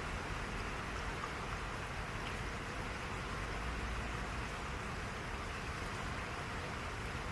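Steady rain falling, a dense even hiss with a few faint drop ticks.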